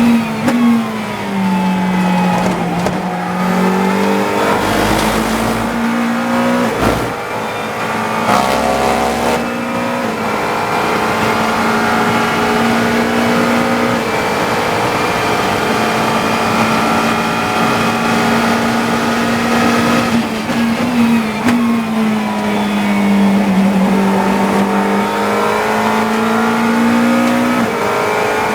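GT3 race car's engine heard onboard: its pitch drops and recovers in the first few seconds, then holds steady at high revs for a long stretch. It dips again about twenty seconds in and climbs back up near the end. A sharp knock comes about seven seconds in.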